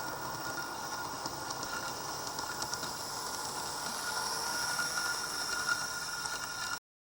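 115 series 1000-subseries train running along the track: a steady hiss with a faint high whine, cutting off suddenly near the end.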